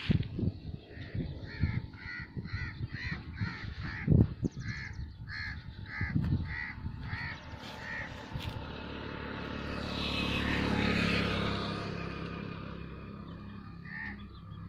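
A bird calling in a quick, even series of short, harsh calls, about two a second, with a few dull thumps among them. About ten seconds in, a rushing noise swells and fades, and one last call comes near the end.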